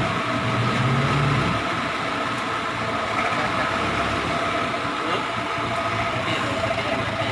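Dump truck's diesel engine running steadily; its low, even note turns rougher about a second and a half in.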